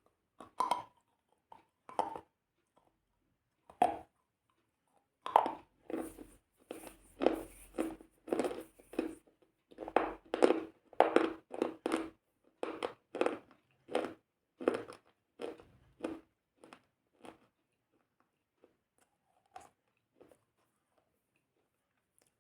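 Crunchy food being chewed: a run of crisp crunches, sparse at first, then about two a second through the middle, thinning out and stopping near the end.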